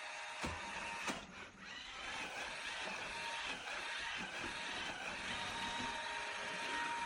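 iRobot Roomba Combo j7+ robot vacuum running with a steady whir and a faint steady whine, manoeuvring back and forth; two sharp knocks come about half a second and a second in, and the sound dips briefly before settling back.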